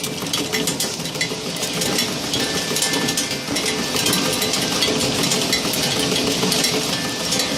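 GR-SS-500 candy-wrapping machine running, its mechanism clattering steadily with rapid continuous clicking.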